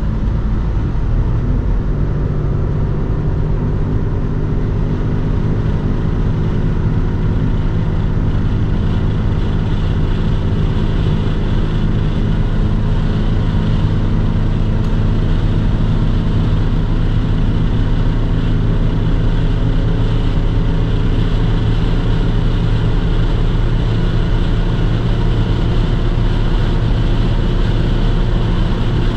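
2003 Audi S6 Avant's 4.2-litre V8 running steadily under load at around 250 km/h, heard inside the cabin with steady wind and tyre noise.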